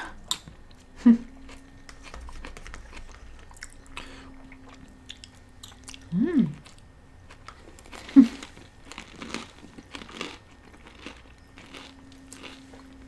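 Close-miked chewing and crunching of food, with wet mouth clicks, as two people eat spoonfuls of tabbouleh and bite into a falafel. A few brief closed-mouth hums come in, one about a second in, one around the middle and one past two-thirds of the way through.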